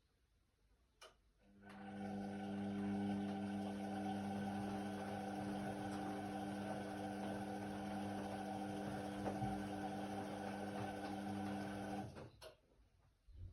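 Indesit WIDL 106 washer-dryer's pump starting with a click, humming steadily for about ten seconds, then cutting off abruptly, with further clicks after it stops.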